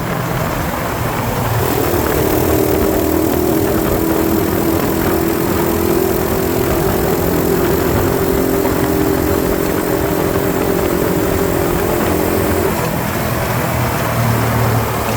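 Small 90cc dirt bike engine running under way, with constant wind and road noise. The engine note picks up about two seconds in, holds steady, then falls to a lower note near the end as the bike slows.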